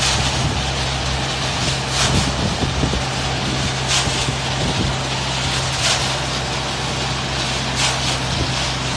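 Self-loading concrete mixer truck running with a steady low engine hum, and a swishing sound about every two seconds.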